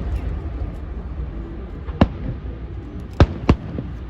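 Fireworks bursting: three sharp bangs, one about two seconds in and two close together near the end, over a steady low rumble.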